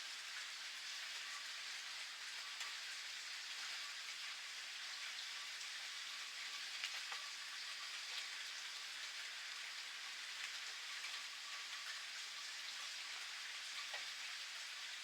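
Steady rain falling, with individual drops pattering and ticking on surfaces and one sharper drop about seven seconds in.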